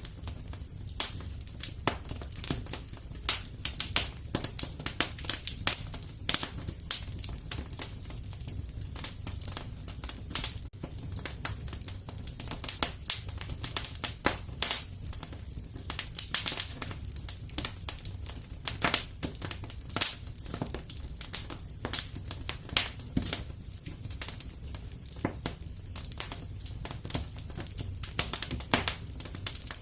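Wood fire burning in a fireplace: irregular crackles and sharp pops over a steady low rumble of flame.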